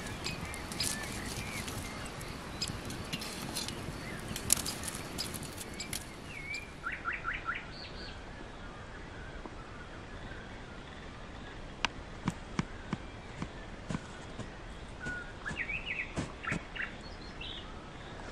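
Small birds chirping in short calls, with a quick run of four or five chirps about seven seconds in and more chirps near the end. Scattered sharp clicks over the first six seconds or so.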